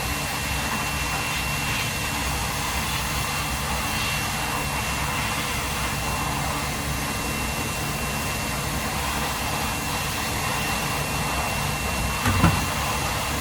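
A steady machine-like noise with a thin, high, constant whine, and a short knock about twelve seconds in.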